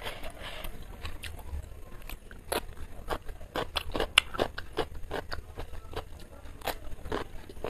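Raw cucumber being bitten and chewed: a string of sharp, irregular crunches, the loudest about four seconds in.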